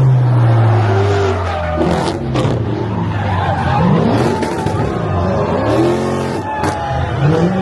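A car doing a burnout, its engine revving up and down again and again over the hiss and squeal of spinning tires.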